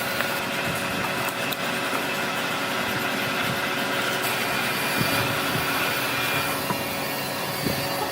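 An electric power tool running steadily: a constant motor whine over a rushing noise.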